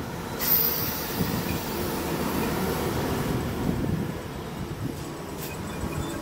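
Great Northern Class 313 electric multiple unit moving past along the platform: a steady rumble of wheels and running gear, with a hiss that comes in about half a second in.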